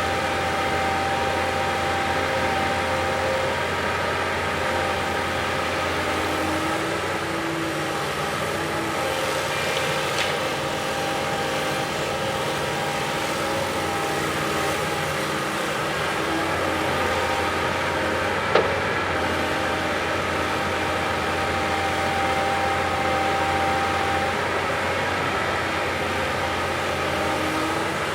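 Diesel engine of a heavy earthmoving machine running steadily, with a single sharp knock about two-thirds of the way through.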